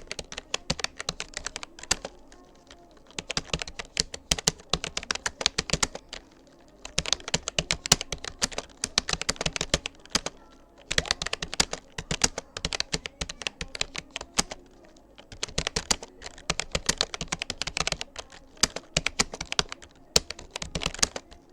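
Fast touch-typing on a Rapoo computer keyboard: rapid runs of key clicks lasting a few seconds each, broken by short pauses.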